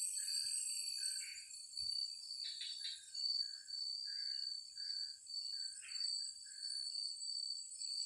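Forest insect chorus: a steady pulsing trill with a high hiss above it, and a run of short chirping calls from another animal repeated every half second or so.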